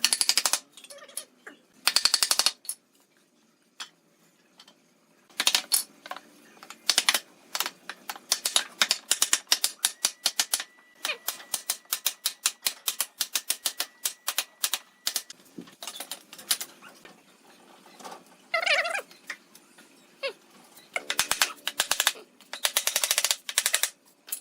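Woodworking hand tools working wood, making irregular runs of sharp, rapid taps and clicks, some runs fast and dense and others sparse.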